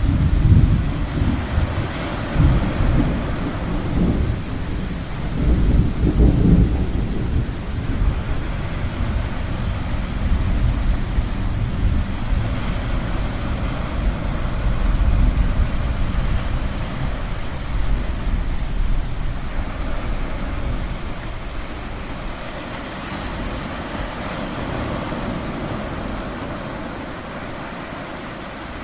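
Rolling thunder rumbling over a steady wash of ocean surf. The rumble comes in suddenly at the start, is heaviest over the first several seconds, then eases into a lower grumble under the waves.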